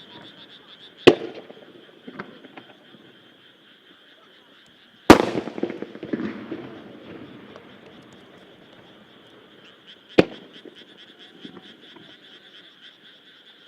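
Single aerial firework shells bursting, three sharp bangs: about a second in, about five seconds in and about ten seconds in. The middle one is the loudest and is followed by a rumbling echo. A steady, high, pulsing chorus runs underneath.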